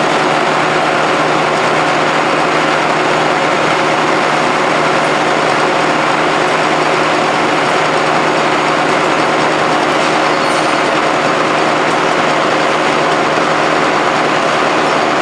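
Heckert FSS315 knee-type milling machine running steadily under test: an even mechanical drone from its motor and gear drive, with a few steady tones in it and no change in pace.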